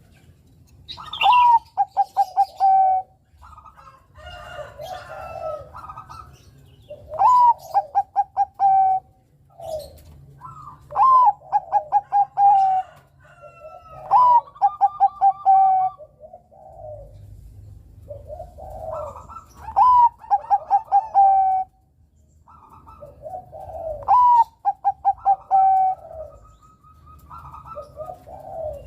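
Zebra dove (perkutut, Bangkok strain) cooing. It repeats its song phrase about six times, every four to five seconds: a rising opening note, then a fast run of short staccato coos. Softer coos fill the gaps between phrases.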